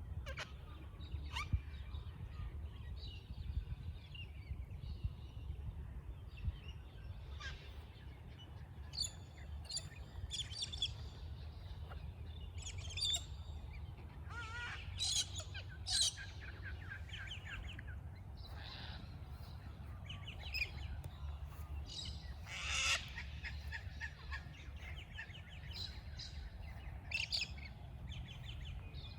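Chorus of birds chirping and calling, with cockatoos letting out loud, harsh screeches a few times, over a steady low rumble.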